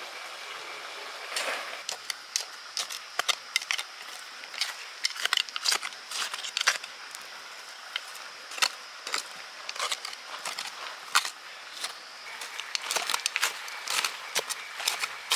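Irregular sharp clicks and snaps, several a second at times, over a steady outdoor hiss with faint high steady tones.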